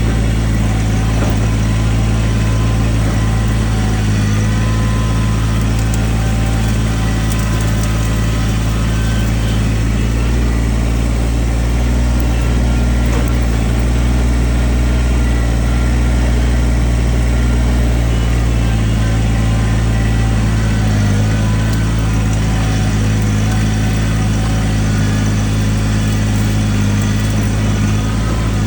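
Heavy equipment engine running steadily at work, with a constant low hum.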